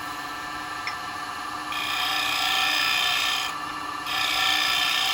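Wood lathe running with a steady hum while a bowl gouge cuts the spinning bowl blank in two passes, each a rasping cutting sound lasting about a second and a half, the first about two seconds in and the second about four seconds in. The gouge's edge is due a sharpen.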